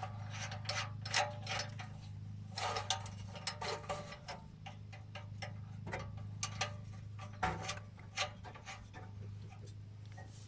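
Irregular light metallic clicks and taps of hand tools working on an exhaust pipe and clamp, some in quick little runs, over a steady low hum.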